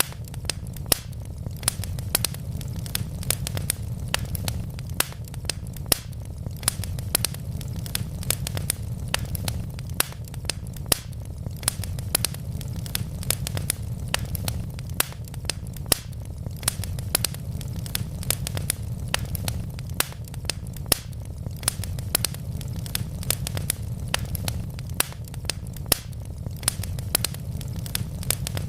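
Wood fire in a fireplace burning steadily, with a low rumble of flame and frequent sharp, irregular crackles and pops from the logs.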